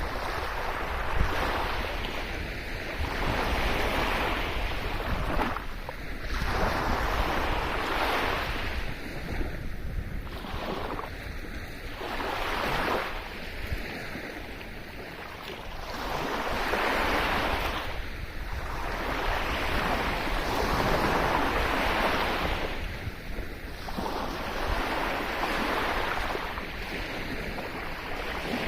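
Sea waves washing onto a shore, the surf swelling and fading every few seconds, over a steady low rumble of wind on the microphone.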